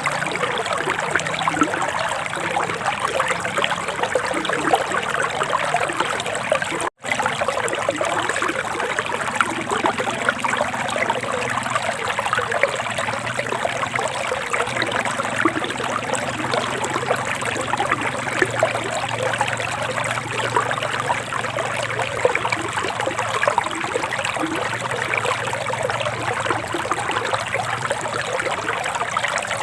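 Forest river water trickling and babbling steadily over stones, cutting out to silence for an instant about seven seconds in.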